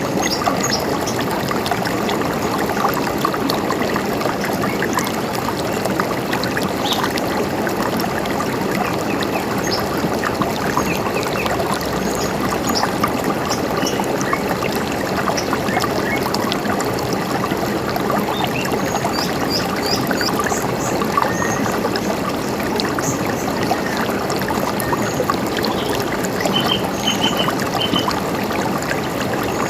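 River water running steadily, with birds giving short high chirps now and then above it, including a quick run of three or four notes near the end.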